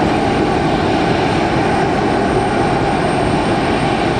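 Airliner engines close by, a loud, steady rushing noise that holds level throughout.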